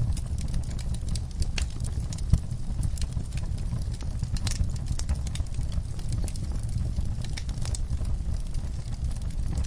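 Wood fire burning in a fireplace, crackling with many small irregular pops over a steady low rumble; one sharper pop a little over two seconds in.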